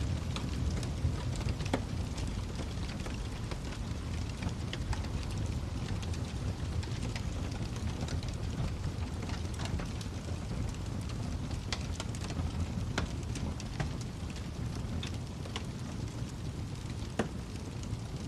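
Wood fire crackling over a steady low rumble, with scattered sharp pops and snaps every second or so.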